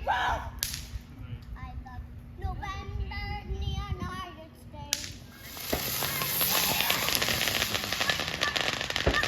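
Voices singing through the first half, with a sharp crack near the start and another about five seconds in. Then dense, continuous crackling of fireworks: many rapid small pops.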